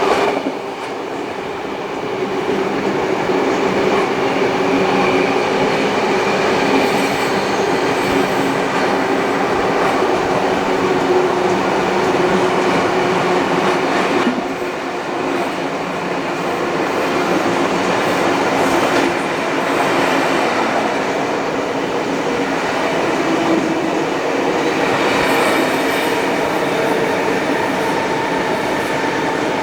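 Heritage train hauled by steam locomotive 3801 on the move: a steady rolling rumble of wheels on rail with clickety-clack, dipping briefly about halfway through.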